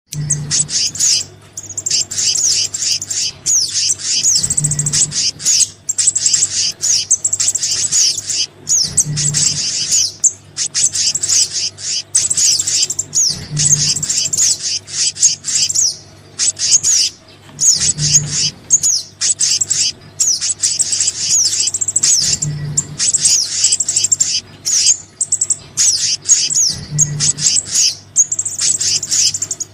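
Bird-lure recording of small birds' calls, sogon and kehicap mixed: dense, rapid high chirps and quick sweeping notes with short breaks, over a low hum. The track repeats in a loop about every four and a half seconds.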